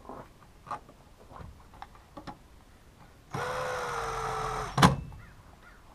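Light clicks and taps of small parts being handled, then a small electric motor, such as a cordless screwdriver, runs steadily for about a second and a half, driving a screw, and stops with a sharp knock.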